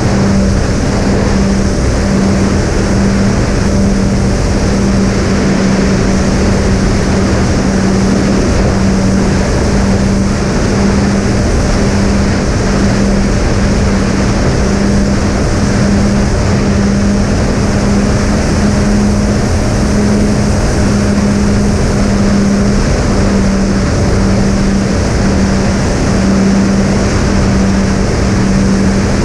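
Twin brushless motors with three-blade propellers on a Reptile Dragon fixed-wing plane running at steady cruise, a constant hum that pulses gently as the two motors beat against each other, over loud wind rush.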